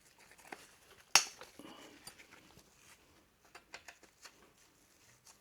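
Small metallic clicks and clinks of tools and engine parts as the oil filter cover on a motorcycle engine is worked loose. One sharp clack comes about a second in, with a few lighter ticks later.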